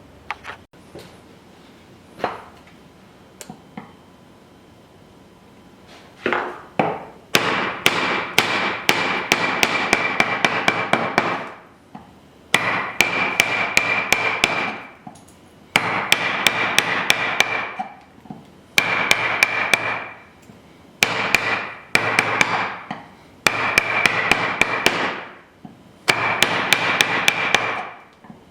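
A chisel being struck with a hammer in quick runs, about five blows a second, chopping waste out of a wooden lap joint. There are short pauses between the runs, and a few single knocks come first.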